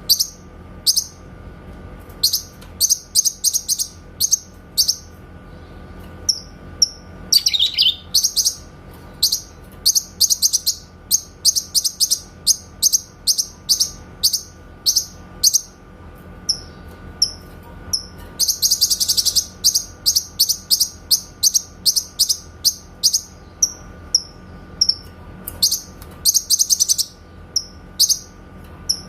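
Cucak kinoy singing its rapid-fire 'tembakan' song: quick runs of short, sharp, very high chip notes, repeated in bursts with brief pauses. There is a falling note about seven seconds in and especially dense runs near the middle and toward the end.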